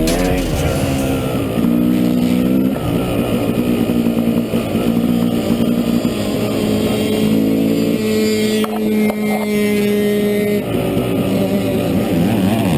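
Yamaha YZ250 two-stroke dirt bike engine running hard, its pitch climbing and dropping as the throttle is worked, with a steadier held note for a few seconds past the middle.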